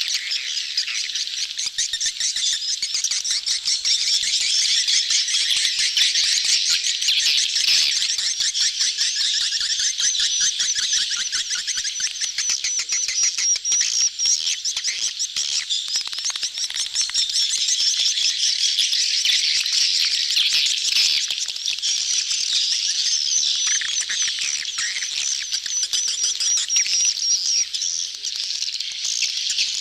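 Dense, unbroken twittering of a crowd of edible-nest swiftlets: the colony and mating-crowd call used as a lure sound to draw swiftlets into a swiftlet house.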